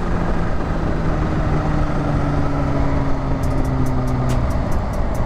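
Kawasaki Ninja H2's supercharged 998cc inline-four running under a rider at speed, heavy wind noise over it; the engine note falls slowly as the throttle eases and sinks under the wind near the end. A fast, light, regular ticking starts about three and a half seconds in. The engine runs smoothly on a newly replaced cam chain tensioner.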